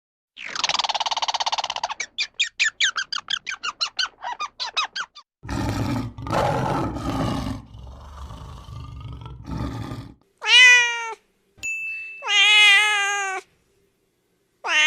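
A run of different animal calls cut one after another, ending with two long cat meows in the last few seconds. Before the meows come a pitched call, a quick series of pulsed notes that slows and fades, and a low, rough stretch.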